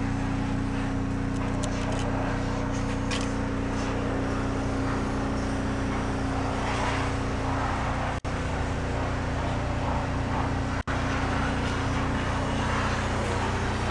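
A steady, low mechanical hum from a running machine, even in level and pitch throughout. It cuts out for an instant twice in the second half.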